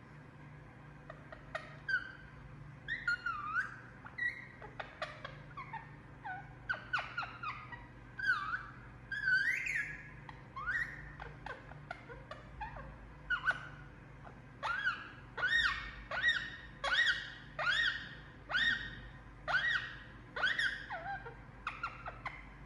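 Indian ringneck parakeet making sleepy chirps and whistles while asleep: a string of short calls sliding up and down in pitch. Near the middle they settle into a steady series of upswept chirps, about one or two a second.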